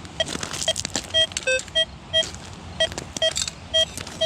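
XP Deus 2 metal detector giving a string of short, choppy target beeps, mostly on one mid pitch with one lower beep about a second and a half in, mixed with scraping noises. It is a broken, iron-sounding response over a target that reads as iron among iron-rich rocks.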